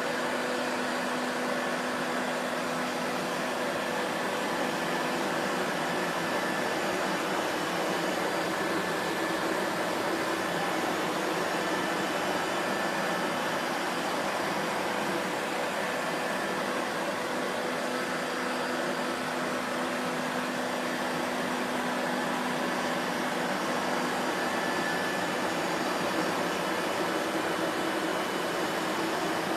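Vacuum cleaner running steadily, a constant rushing noise with a faint motor hum in it and no change in pitch.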